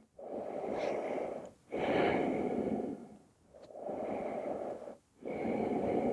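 A person breathing deeply and audibly through the microphone, in and out: four long breath sounds of a little over a second each, with brief pauses between them.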